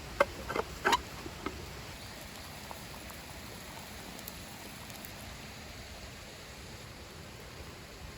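A handful of short, light knocks in the first second and a half of camp-coffee handling, over a steady rush of a river flowing.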